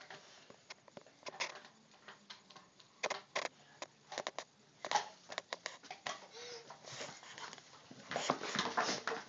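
Pet dogs scuffling at play over a tug-of-war toy, with scattered clicks and knocks.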